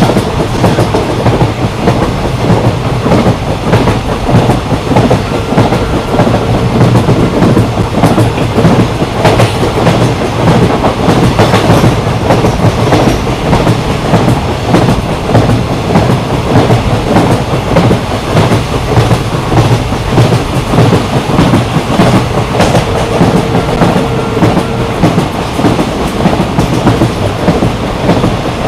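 Passenger train running at speed, heard from on board: a steady rumble of wheels on rail with continuous clickety-clack from the rail joints. A faint steady whine comes and goes, near the start and again about 23 to 25 seconds in.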